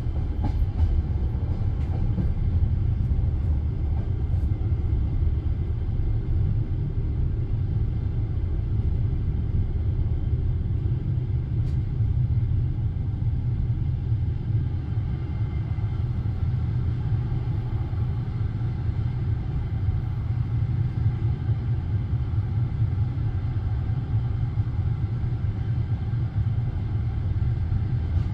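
Passenger train carriage rolling along the track, heard from inside the coach: a steady low rumble of wheels on rails, with a few light clicks in the first few seconds.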